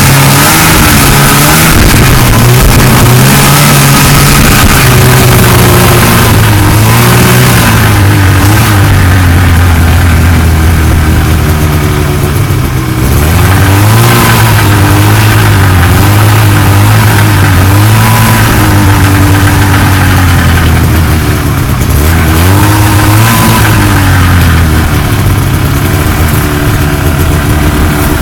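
1979 Ski-Doo Blizzard 5500 snowmobile's two-stroke engine running loud under way, its pitch rising and falling with the throttle and dropping off briefly about twelve and again about twenty-one seconds in.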